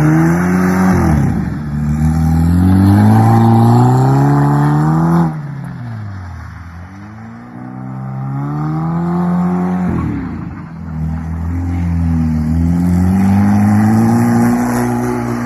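BMW 320xi's engine revving hard while the car drifts on snow. The revs climb and hold high, then fall sharply as the throttle is lifted about a third of the way in and again about two-thirds in, each time climbing back up.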